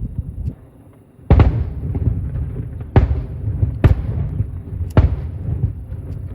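Aerial firework shells bursting at a distance: four sharp bangs over about four seconds, each followed by a low rolling rumble.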